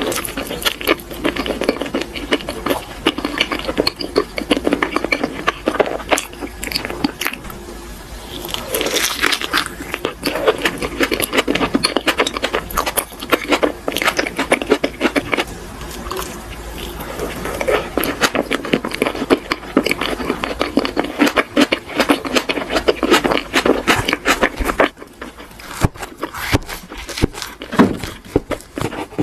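Close-miked chewing and mouth sounds of soft cream-topped cake, a dense run of quick wet clicks and smacks. Near the end the sound thins to sparser, sharper ticks as a knife is set into a soft crepe roll.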